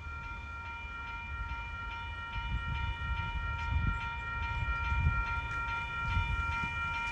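A railroad bell ringing in steady strokes, about two to three a second, over the low rumble of a train that grows louder as it approaches.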